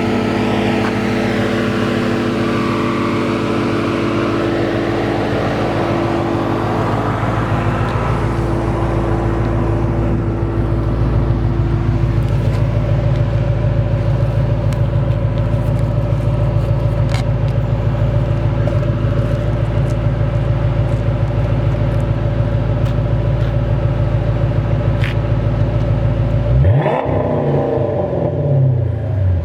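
Chrysler 300 SRT8's 6.1-litre Hemi V8 idling steadily through an aftermarket Flowmaster exhaust, then revved near the end, the pitch climbing and dropping back.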